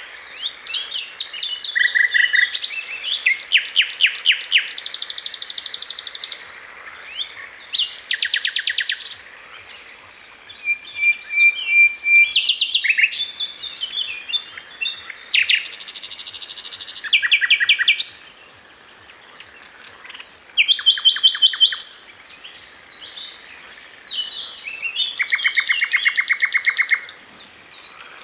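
A songbird singing varied phrases: fast, high trills of rapidly repeated notes lasting a second or two each, alternating with short chirps and brief pauses.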